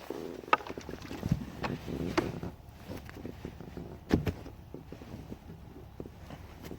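Handling noises on a fishing kayak: a few scattered knocks and clunks over low water noise.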